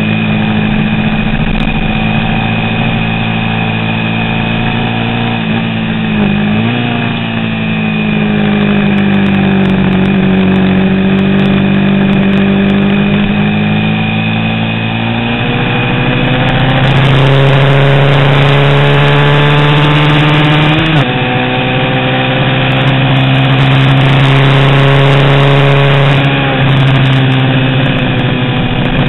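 Engine of a vintage 350cc racing motorcycle running hard and steadily under load, its pitch dropping and climbing again at gear changes a few times.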